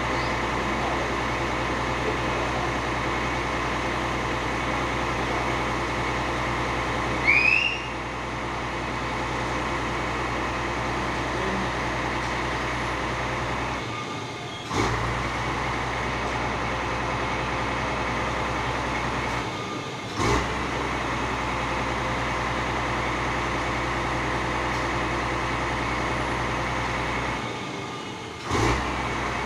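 A fire truck's engine running steadily with a constant mechanical drone. A short rising squeak comes about seven seconds in. The drone briefly falls away three times, each followed by a sharp knock.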